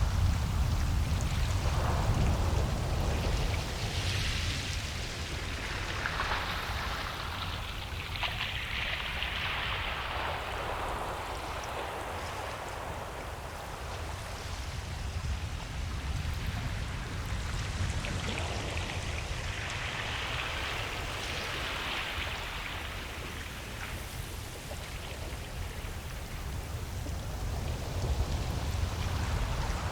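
Ocean waves breaking and washing up a beach: a steady low rumble under slow surges of hiss that swell and fade every several seconds.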